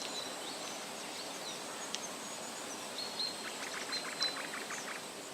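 Forest ambience of a nature-sounds recording: a steady background hiss with scattered short, high bird chirps and whistles, and a quick chattering run of rapid notes about three and a half seconds in.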